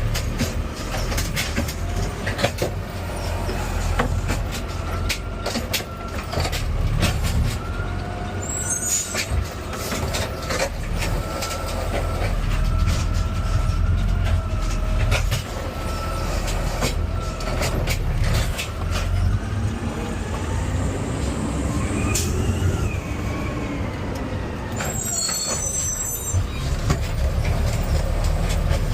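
Garbage truck's diesel engine running steadily under a hydraulic whine, with repeated clanks and knocks as the automated arm grips and lifts a trash cart. About two-thirds of the way through the whine rises in pitch and then falls.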